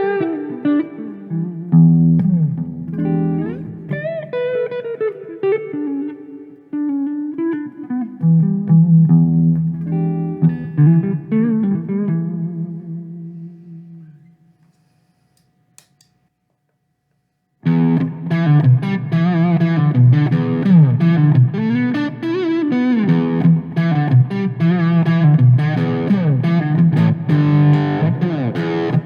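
Electric guitar played through a Donner Tube Drive overdrive pedal into a Marshall amp's clean channel: a picked phrase with string bends and sustained notes that rings out and dies away about halfway through. After a few seconds of silence a thicker, brighter, more driven riff starts and keeps going.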